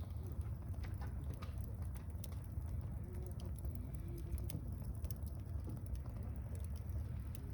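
Wood campfire crackling, irregular sharp pops and snaps over a steady low rumble, with a few faint short low tones about midway.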